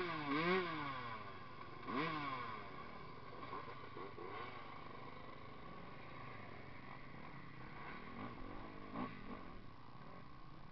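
Motocross bike engine revving hard up and down several times in the first two seconds or so, then settling to a fainter, steadier drone with a few short revs near the end.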